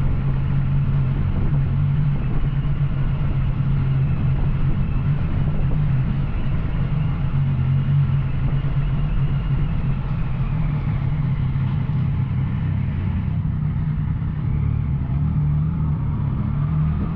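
Yamaha Tracer 900's three-cylinder engine through an Arrow exhaust, running at a steady engine speed while riding.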